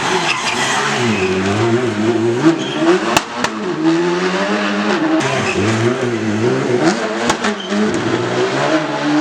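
Rally car engine revving hard through the gears, its pitch repeatedly dropping and climbing again, with a few sharp cracks.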